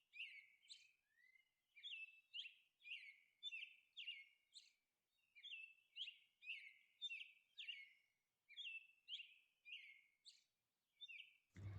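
Faint birdsong: a steady run of short, high chirps, about two a second, each with a quick downward sweep.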